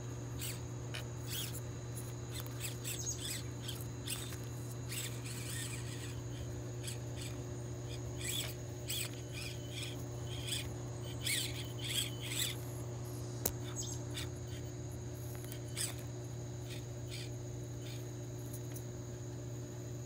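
Small birds chirping in short, irregular high calls, clustered in the middle, over a steady low hum.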